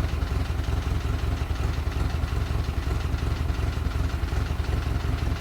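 GAZ-MM four-cylinder side-valve (flathead) engine idling steadily after a rebuild. One valve taps lightly, which the mechanic puts down to valve clearance.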